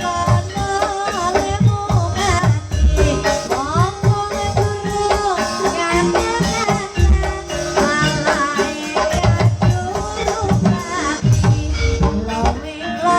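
Ebeg (kuda kepang) accompaniment music: drums and rattling percussion keep a dense, driving beat under a melody line that slides and bends in pitch.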